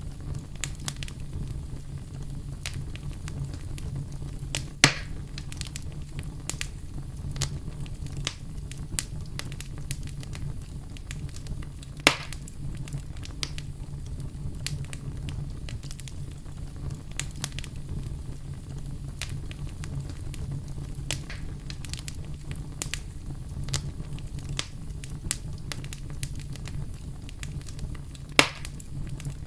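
Wood fire crackling with many small snaps over a steady low rumble, with three louder sharp pops at about 5, 12 and 28 seconds.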